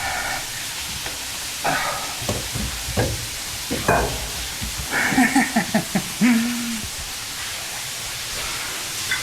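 Steady rush of a waterfall inside a cave, with knocks and scrapes from people squeezing through a tight rock passage and a few short grunts and vocal sounds, one held briefly about two thirds of the way in.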